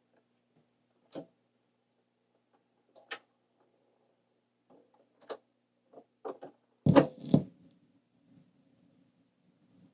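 Record player being readied to play a 45: a few scattered sharp clicks, then a loud double knock about seven seconds in as the stylus is set down on the vinyl. After that comes a faint low steady rumble of the record turning before the music begins.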